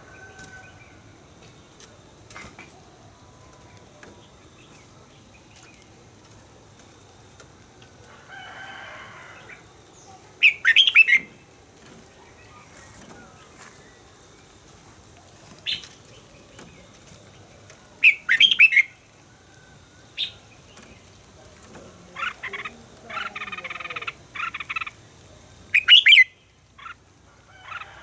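Red-whiskered bulbul singing: three loud, short warbled phrases about eight seconds apart, with a few shorter calls between them.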